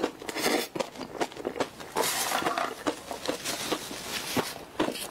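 Close-miked chewing of a mouthful of strawberry cream puff (choux pastry and whipped cream): irregular clicks and mouth noises. Near the end a paper napkin is rubbed across the lips.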